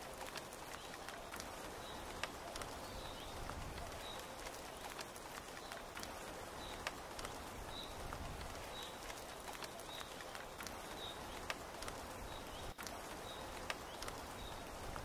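Steady rain falling, an even hiss with scattered sharp drip ticks. Over it, a short, high chirp repeats about once a second.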